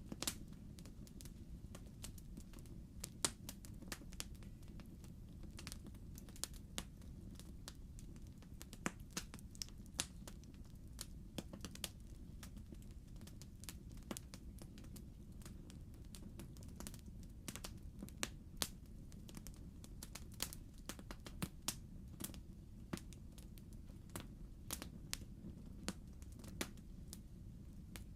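Log fire crackling in a fireplace: irregular sharp pops and snaps of burning wood, several a second in places, over a low steady rumble of the flames.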